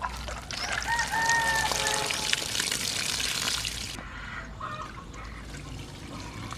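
A rooster crows once, about a second in, over a loud rush of pouring water that cuts off suddenly about four seconds in; quieter trickling follows.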